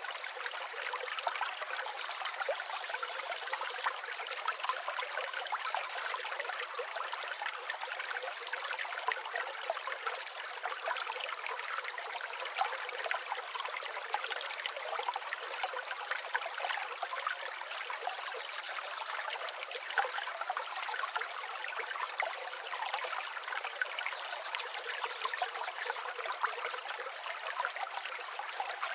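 River water flowing and babbling steadily, a light rushing sound with no low rumble.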